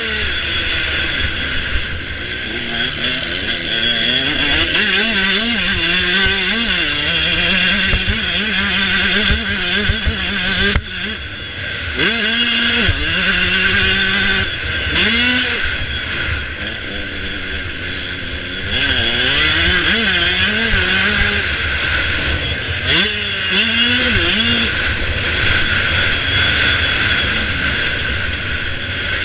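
Motocross bike engines revving, their pitch climbing and dropping over and over as the bikes accelerate and shift gear.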